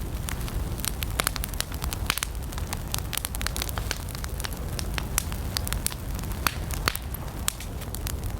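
Campfire of burning wood crackling, with many irregular sharp pops over a steady low rumble of flames.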